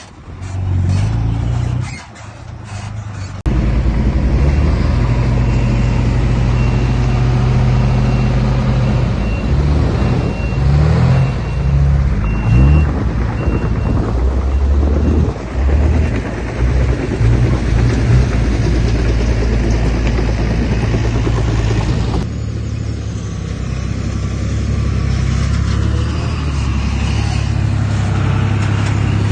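Diesel engine of heavy earthmoving machinery running under load, its pitch rising and falling a few times partway through. The sound changes abruptly twice, about three seconds in and again past twenty seconds.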